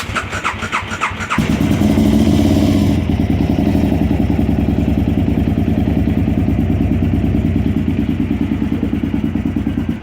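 KTM 950 SM's V-twin engine cranking on the starter for about a second and a half, then catching, running fast briefly and settling into a steady, pulsing idle. This start-up is being recorded for an abnormal starting noise.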